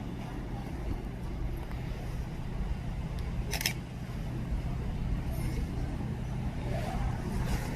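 Diesel engine running with a steady low drone, with one brief sharp sound about three and a half seconds in.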